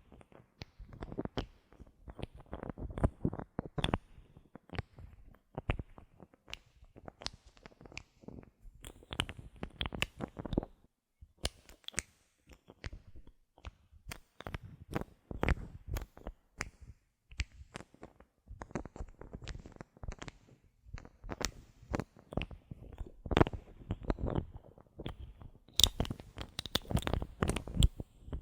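Bottle caps handled close to the microphone, giving irregular clicks, taps and crackly scratches in quick clusters with short pauses; near the end the clicks turn sharper and brighter.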